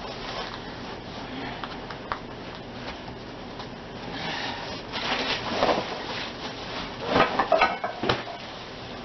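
Unpacking and handling a trolling-motor stand bracket: rustling and rubbing of parts and packing, growing busier about halfway through, with several sharp knocks and clatters near the end.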